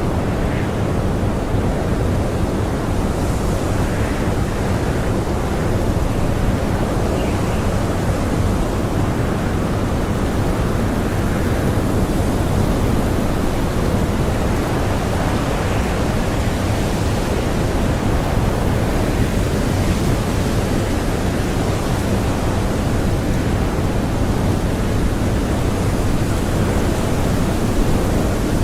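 Strong blizzard wind blowing steadily: a dense, even rush with most of its weight in the low end.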